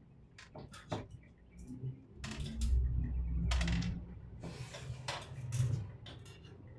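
Scattered clicks and clatter of small hard objects and tools being handled on a workbench, with a low rumble of handling noise in the middle.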